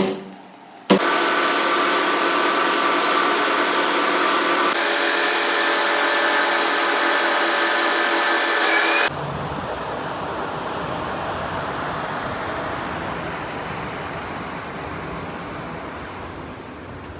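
Steady factory machinery noise in edited segments that change abruptly about one, five and nine seconds in. The earlier parts carry a whine of several steady tones over a hiss; the last part is a duller, deeper rumble that slowly fades.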